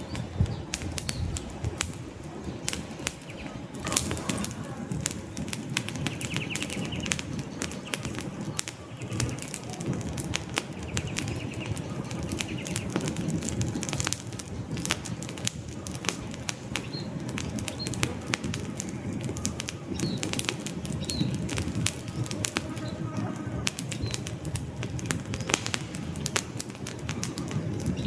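Wood fire burning in a fireplace: a steady low rush of flames with many sharp crackles and pops from the logs, one louder pop about four seconds in.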